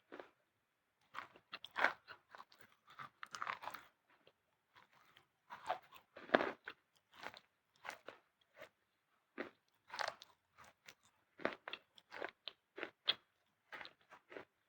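Dry, brittle white material crunching and crumbling in irregular short bursts, about one to two a second, some louder than others.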